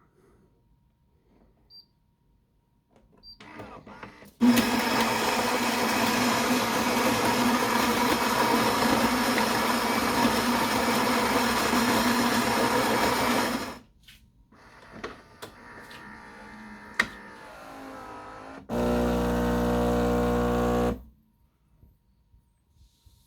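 Philips bean-to-cup coffee machine grinding whole beans for about nine seconds, then clicking and whirring quietly as the brew unit moves. Its pump then buzzes steadily for about two seconds.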